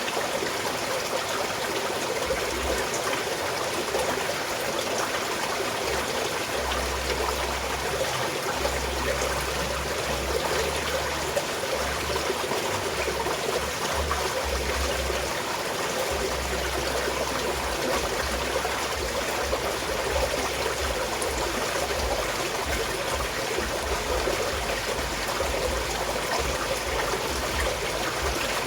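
A small mountain stream flowing steadily, water trickling without a break.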